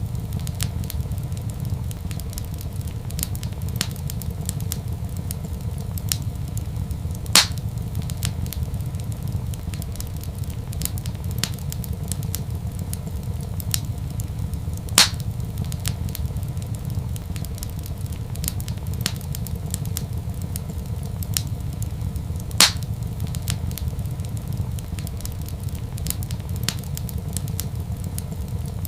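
Fireplace fire crackling, with many small ticks over a steady low rumble and three louder pops about seven and a half seconds apart.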